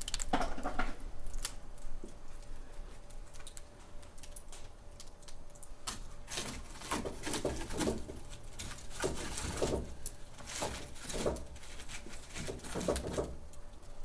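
Wood fire crackling in a fireplace, with irregular sharp pops and softer puffs of flame.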